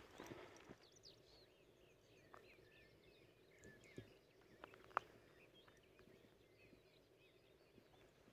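Near silence with faint bird chirps throughout and a few soft clicks in the middle.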